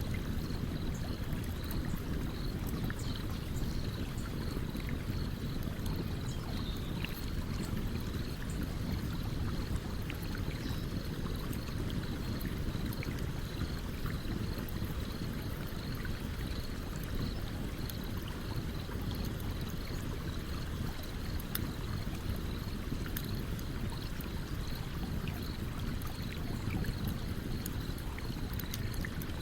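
Campfire crackling, with scattered small sharp pops, over the steady rush of a flowing stream.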